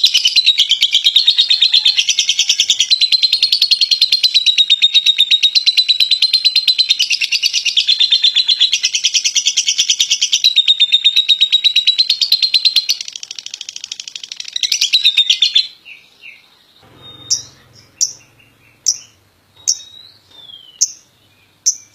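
Lovebird singing its long ngekek: a rapid, high, unbroken chattering trill that stops about fifteen seconds in, after which come single short chirps about once a second. A long unbroken ngekek like this is the trait prized in competition lovebirds.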